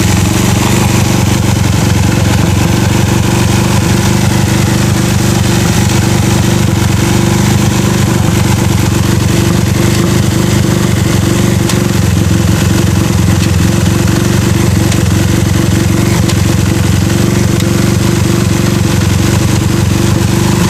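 Honda CB100-based single-cylinder four-stroke engine, bored out to 208 cc, running steadily at a constant speed with a thumping beat.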